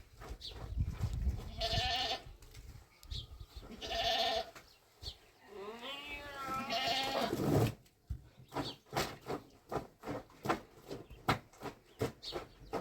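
Livestock bleating: two short calls, then a longer wavering call, followed by a quick run of sharp clicks.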